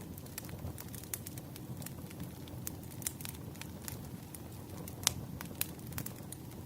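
Wood fire crackling: a steady low rumble of burning logs with scattered sharp pops, the loudest pop about five seconds in.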